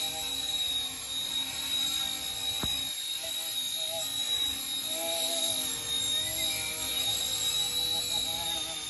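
RC Era C189 micro RC helicopter in flight: a steady high-pitched whine from its small electric motor and rotors, with lower tones that waver up and down as it manoeuvres. A single sharp click about two and a half seconds in.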